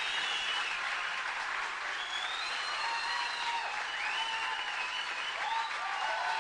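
Crowd applauding steadily, with scattered cheering voices over the clapping.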